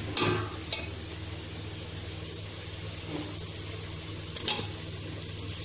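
Onion and spice masala sizzling steadily in oil in a cooking pot, with a few light knocks as potato cubes are dropped in, near the start and again about four and a half seconds in.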